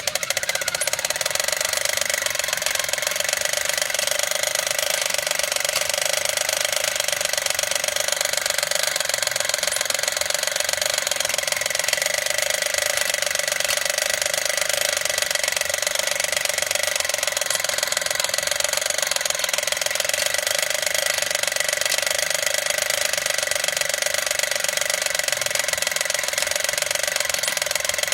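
Battery-operated toy motorcycle racing track set running: its small electric motor and plastic gears whir steadily with a fine, rapid clicking.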